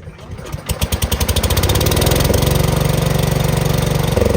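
Garden tractor engine being started: it catches within about a second and runs loud and steady with a fast, even beat, its speed changing about two seconds in and again near the end.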